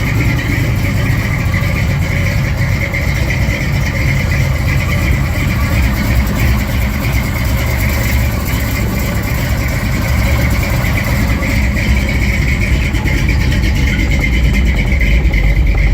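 1956 Ford truck's engine running steadily.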